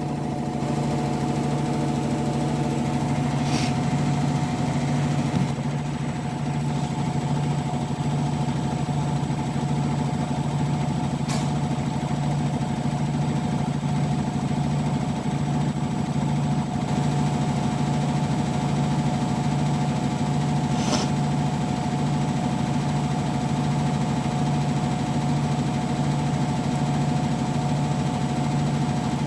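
Hotpoint Active Care washing machine running in its final spin, a steady motor whine over a low hum that pulses regularly. Three light ticks sound along the way.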